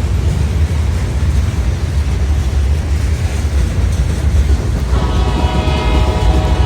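Freight train running by with a steady heavy low rumble. About five seconds in, a locomotive air horn starts a loud blast that is still sounding at the end.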